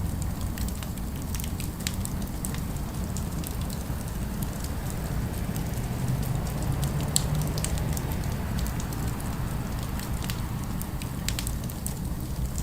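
Fire crackling with scattered sharp pops over a steady low rumble.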